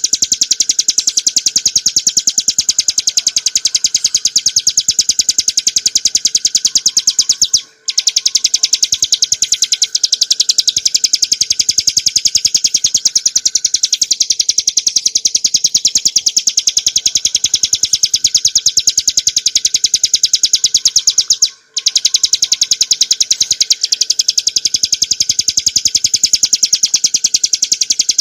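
Bar-winged prinia (ciblek gunung) song: a rapid, unbroken rattle of high, sharp notes that breaks off briefly twice.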